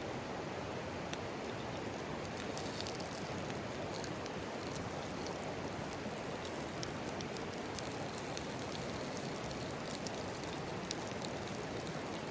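Steady rush of a mountain stream, with scattered small crackles and pops over it.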